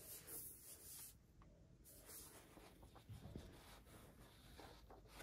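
Near silence: faint rustling and a few soft handling knocks in a small room.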